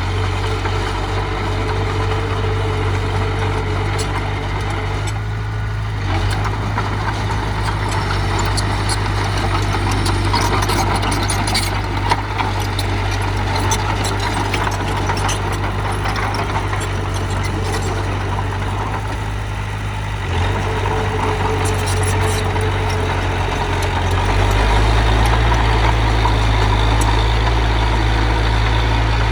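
Diesel engine of a working earthmoving machine running steadily, with scattered clanks over it. Near the end the engine note grows louder and deeper.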